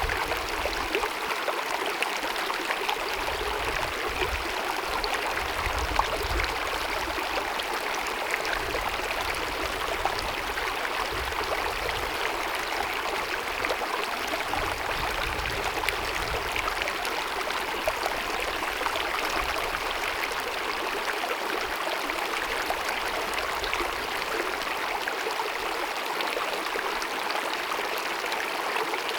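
Small glacier-fed mountain meadow stream babbling and gurgling over rocks in a steady, unbroken rush of running water.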